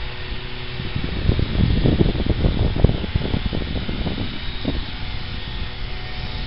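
Steady outdoor rumbling noise, with a cluster of low, irregular thumps from about one to four seconds in, as a handheld camera is carried around outdoors.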